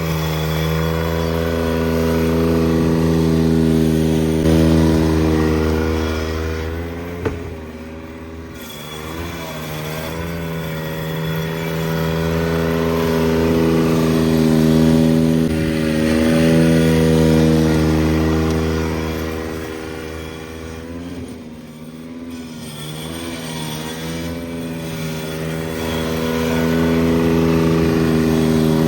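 An engine running steadily, its pitch wavering slightly. It gets quieter twice for a couple of seconds.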